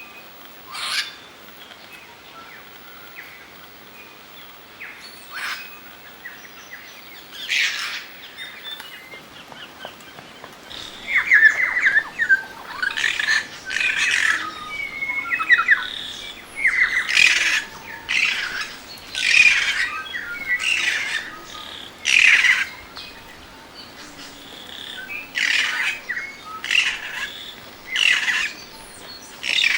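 Birds calling: short, harsh, rasping calls, a few at first and then coming one after another from about ten seconds in.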